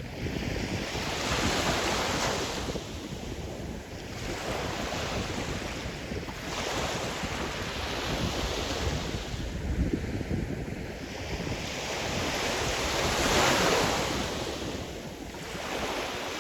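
Sea surf: waves breaking and washing up the shore in repeated swells every few seconds, the biggest one near the end.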